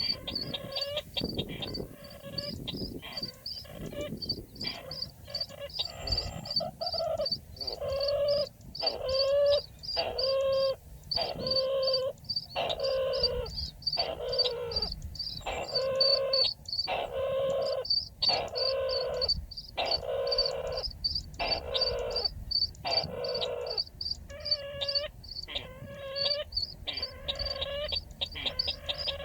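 Chằng nghịch bird calls: quick high chirps, about three a second, over a lower call that falls in pitch and repeats roughly once a second, the call used as a trapping lure.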